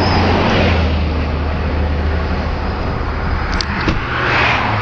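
Vauxhall Vectra 2.5 V6 engine running hard: a steady low drone under a heavy rushing noise, with a couple of sharp ticks about three and a half seconds in.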